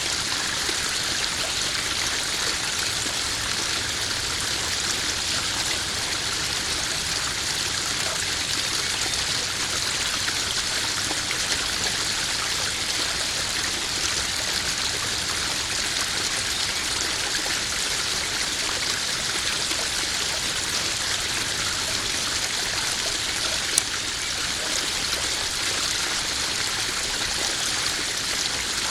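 Small garden waterfall splashing steadily into a koi pond, an even rush of falling water. A single sharp click cuts through it late on.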